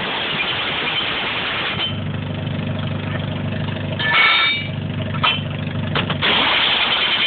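A motor-vehicle engine idling steadily from about two seconds in, after a loud even hiss. A short pitched sound with overtones rings out about four seconds in, a few clicks follow, and the loud hiss returns near the end.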